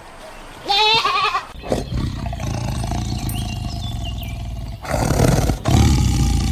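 A short wavering bleat about a second in, then long, low, rough calls from a large animal, with a brief break near the five-second mark.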